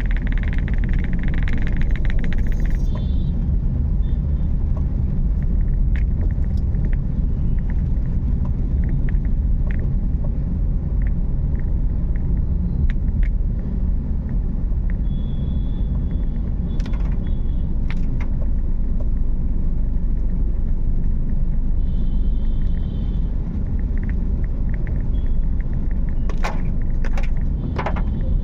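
Steady low road and engine rumble of a car being driven, with scattered sharp ticks and a few short high tones.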